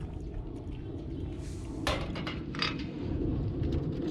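A few light clinks of utensils against a plate or grill plate, the sharpest about two seconds in, over a steady low rumble of wind.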